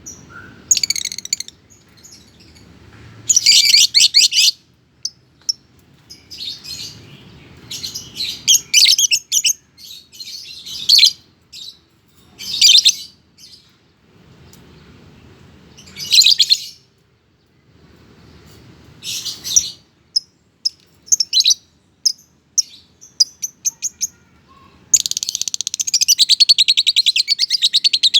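Lovebird singing in bursts of shrill, rapid chirps and chatter. Near the end it breaks into a long, fast trill of rapidly repeated notes.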